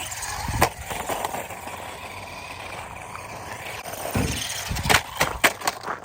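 Redcat Volcano 16, a small electric 1/16-scale RC monster truck, driving over rough ground. There is a sharp knock about half a second in, then a cluster of knocks near the end as it lands and bounces.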